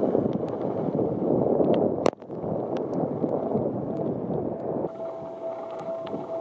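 Strong typhoon wind buffeting the microphone, with rain, and a sharp knock about two seconds in. About five seconds in, a steady pulsing tone starts.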